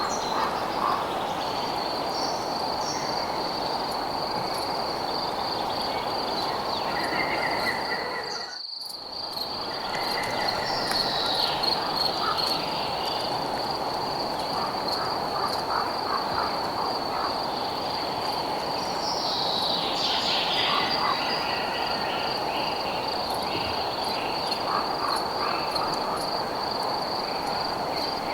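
Night insect chorus: a cricket's steady, pulsing high trill over a soft even hiss, with other scattered chirps and a few falling calls. The whole sound dips out briefly about nine seconds in.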